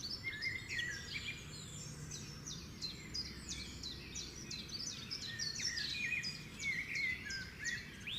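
Several small birds chirping and singing together, a dense chorus of quick, high chirps and short falling notes.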